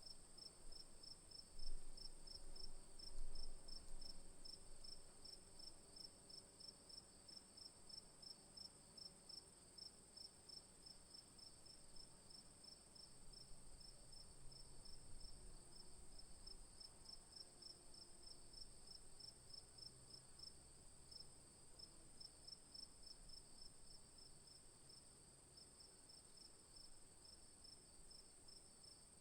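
Faint insect chorus of crickets: a steady high buzz with a rapid, regular chirp beneath it that runs without a break. A couple of low bumps come about two and three seconds in.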